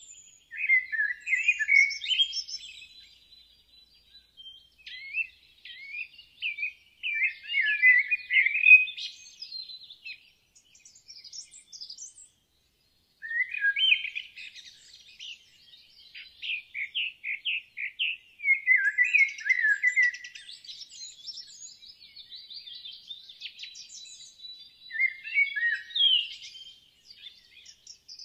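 Small songbirds chirping and trilling in repeated bursts of quick notes, with a brief total break about twelve seconds in.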